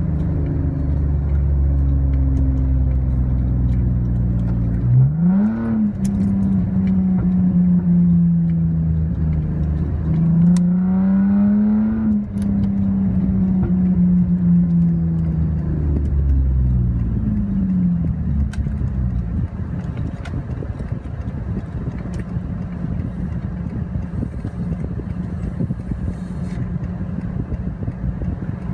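Cabin sound of a Lexus GS300's 2JZ-GE inline-six with its muffler and resonator deleted, its exhaust drone rising and falling as the automatic is stepped down through 3, 2 and L. The revs jump sharply about five seconds in and climb again around ten seconds in, sinking slowly after each, then settle to a steadier, lower drone for the last third.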